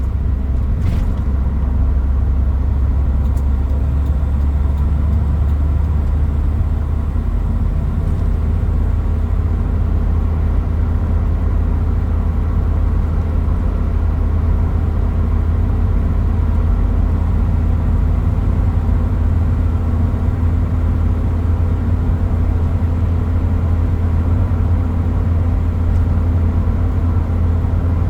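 Toyota Hilux Mighty-X pickup running with a steady low rumble and no change in engine pitch. A faint brief click comes about a second in.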